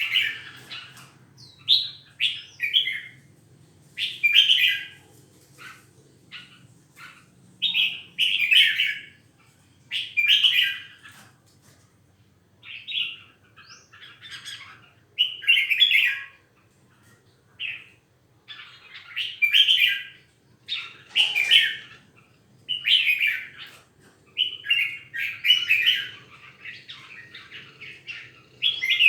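A caged songbird singing loud, short, repeated phrases, one every second or two, with brief pauses between them.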